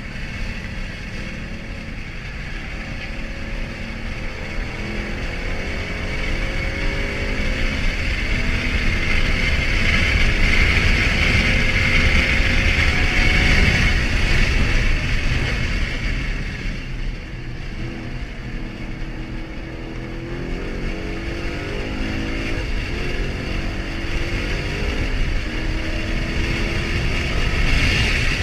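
Car engine running under load, its pitch rising and then dropping several times as it climbs through the revs and shifts, over steady road and wind noise. It is loudest about a third of the way in.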